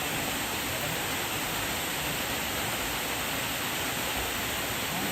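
Steady rushing of flowing water, an even wash of noise that does not change.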